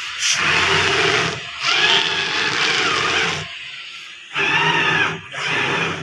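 Electric reach truck's hydraulic pump motor running in four separate spells as the fork controls are worked, a steady hum with a higher whine that rises and falls in pitch during the second spell.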